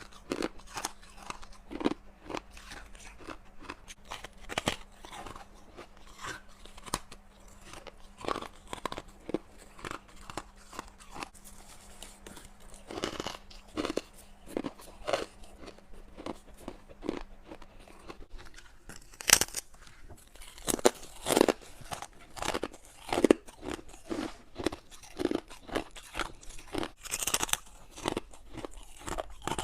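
A person chewing frost-covered ice cubes: irregular crunches, one after another, that grow louder and sharper in the last third.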